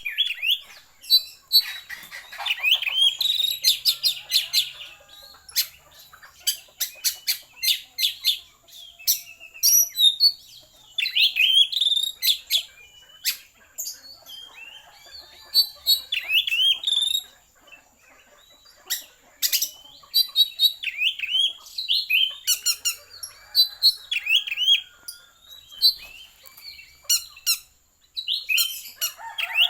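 Pet songbird chirping and calling over and over, with sharp short chirps and quick sweeping notes in dense bursts and short pauses between.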